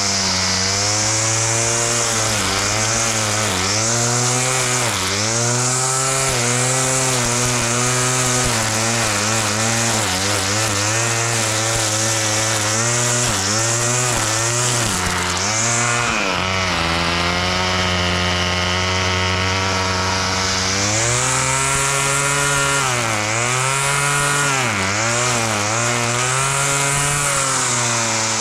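Small petrol engine of a grass-cutting machine running hard, its pitch sagging and recovering again and again as it takes on load. Through a stretch in the middle it holds a steadier, lower note.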